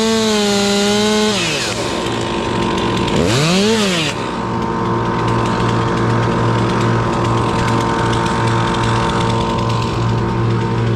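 Two-stroke chainsaw held at high revs, then let back off the throttle about a second in. It is blipped once, rising and falling in pitch, around four seconds in, then settles to a steady, lower running note.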